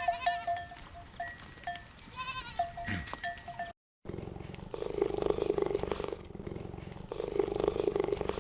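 Animal calls: a run of short, evenly repeated high notes with a few chirps, then, after a brief silence about four seconds in, a different low call in two long bouts.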